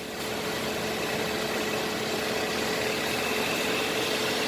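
Hyundai Accent running slowly with its automatic transmission turning, giving a steady hum. A faint higher whine comes in about three seconds in as the sound grows slightly louder. This hum is the complaint, which the mechanic takes for a fault inside the transmission.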